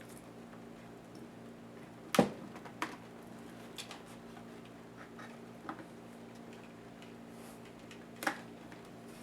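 Scattered clicks and taps of laptop parts and tools being handled during disassembly, the loudest about two seconds in and another near the end, over a faint steady hum.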